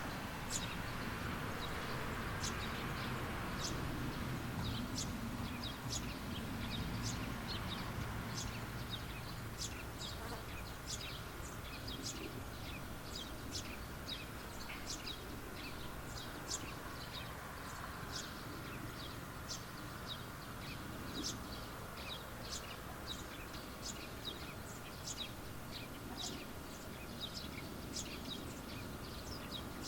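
Birds chirping with short, high calls that come about twice a second, over a steady background hum and low noise.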